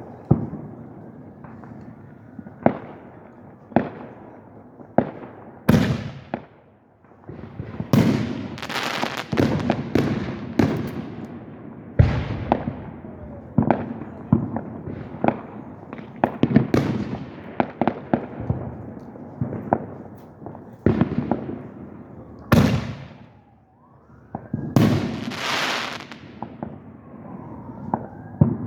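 Fireworks display: a rapid series of loud bangs from aerial shells, some followed by a crackling hiss that lasts a second or two. Near the end, a rising and falling wail sounds under the bangs.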